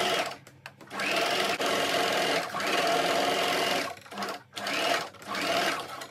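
Electric sewing machine stitching a seam through fabric in several runs: it stops briefly just after the start, runs steadily for about three seconds, then gives a short burst and a last run of about a second before stopping near the end.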